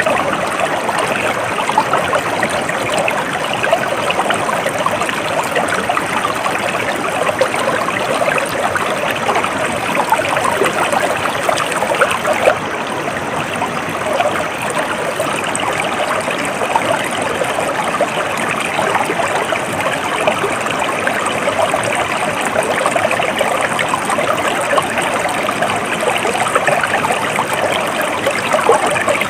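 Water flowing over rocks in a stream, a steady babbling trickle.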